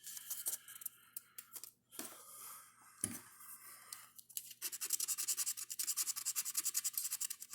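Scratch-off lottery ticket being scratched: scattered light scraping at first, then about halfway through a quick, even run of rubbing strokes, about four or five a second.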